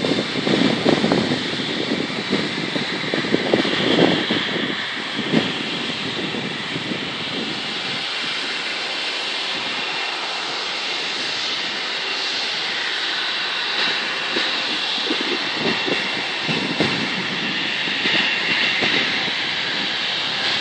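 An airplane's engines at takeoff power: a loud, steady rushing roar, with uneven low rumbling surges in the first few seconds.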